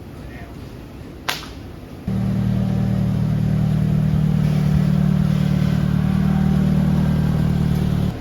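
An engine running at a steady speed, a loud low drone that starts abruptly about two seconds in, after a single sharp click, and cuts off suddenly just before the end.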